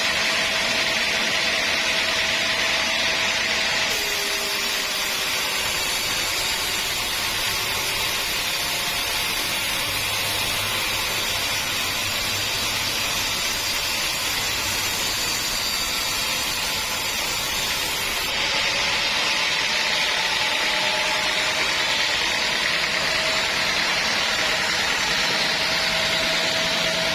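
Sawmill saw running steadily while sawing teak logs, a continuous mechanical hiss with a faint steady whine; the sound changes about four seconds in and changes back about eighteen seconds in.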